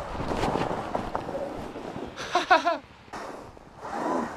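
Surron electric dirt bike jolting over rough snowy ground: clattering knocks mixed with wind on the microphone. About two seconds in, the rider lets out a loud cry as the bike bottoms out hard.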